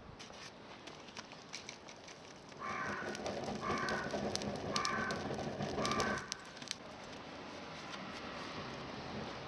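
A crow cawing four times in a row, about a second apart, starting a few seconds in, over a faint background scattered with small crackling clicks.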